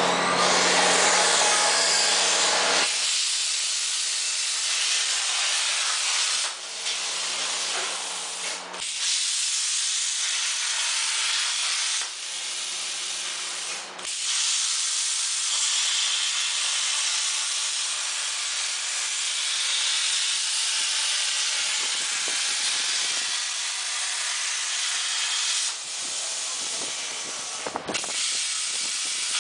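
CNC plasma cutter torch cutting sheet metal: a loud, steady hiss of the arc and air jet that briefly drops out several times. A low hum with steady tones stops about three seconds in.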